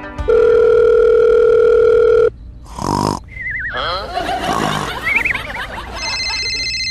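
Telephone sound effects: a steady dial-type tone for about two seconds, then a short burst and wavering, sliding tones, then a steady high ringing tone near the end, as a call comes through.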